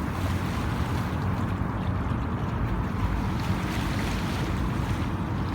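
Steady wind and water noise with a low rumble, like wind on the microphone by open water.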